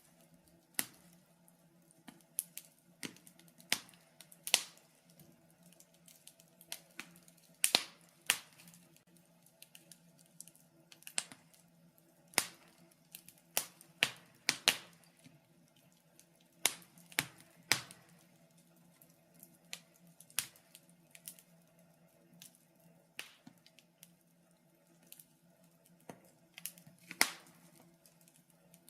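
Fire burning in a fireplace, crackling with sharp, irregular pops about once or twice a second over a faint steady hum.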